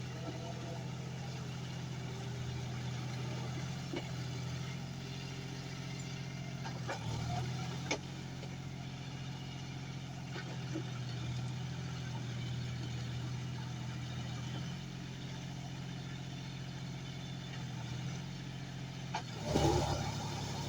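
John Deere 5105 tractor's diesel engine running steadily, with a few faint knocks and a louder brief clatter near the end.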